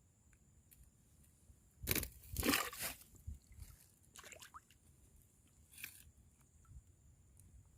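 A few short bursts of rustling handling noise, the loudest two about two and two and a half seconds in, with fainter ones later.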